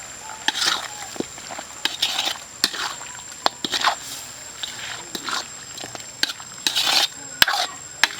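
Cooking utensil stirring and scraping in a cooking pot: repeated short scraping strokes with sharp clicks, about one and a half a second.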